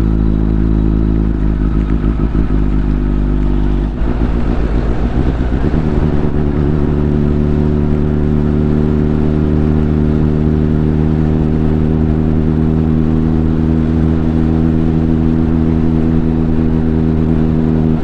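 Motorcycle engine running at a steady pitch on the move. The engine note changes about four seconds in, then settles at a new steady pitch about two seconds later.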